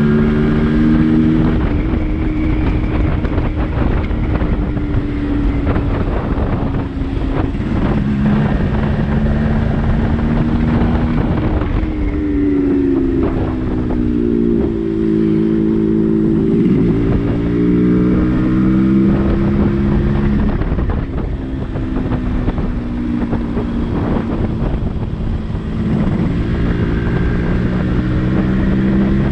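Yamaha RX-135's single-cylinder two-stroke engine running under way, its note rising and falling with throttle and gear changes, with wind rushing over the microphone.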